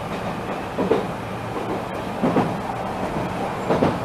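Enshu Railway electric train 2006F running along the track, heard from inside behind the cab: a steady rumble with a wheel clack over the rail joints about every second and a half.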